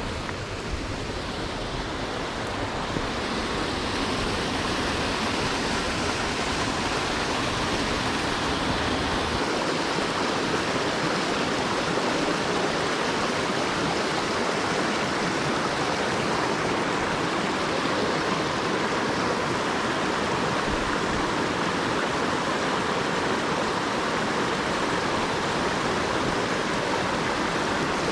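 Waterfall rushing, a dense steady roar of falling water. A low rumble underneath drops away about nine seconds in.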